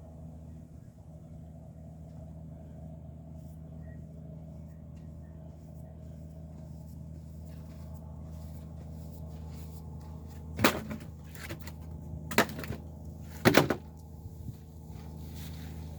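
Pieces of scrap wood knocking together as they are handled, with three sharp clatters close together in the second half, over a steady low hum.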